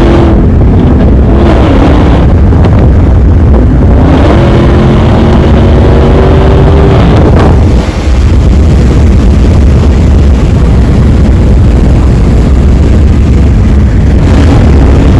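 Car engine running loudly while driving, with a heavy low rumble and wind noise; its pitch rises a couple of times in the first half, as under acceleration.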